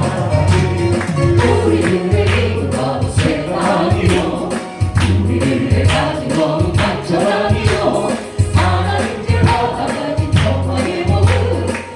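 Korean gospel praise song sung by a group of voices over a band, with a strong bass and a steady beat.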